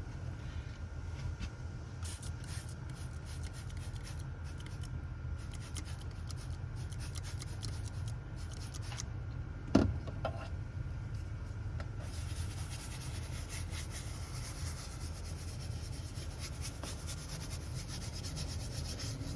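Rubbing and scrubbing on engine bay surfaces, a run of short scratchy strokes over a steady low hum, with one sharp knock about halfway through.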